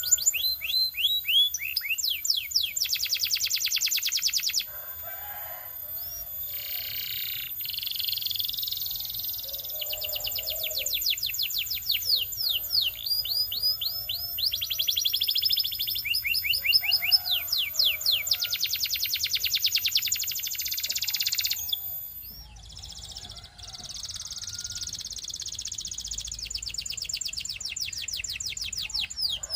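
Belgian canary singing: a long song of rapid, high trills, each a fast run of repeated notes, switching to a new trill every second or two with short breaks between phrases.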